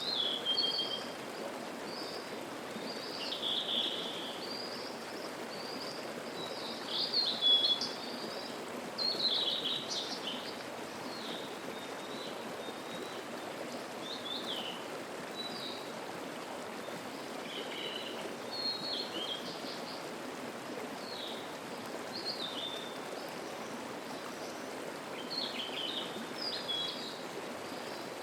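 Steady rushing of a mountain stream and waterfall, with songbirds singing short, high chirping phrases over it, loudest about a quarter of the way in.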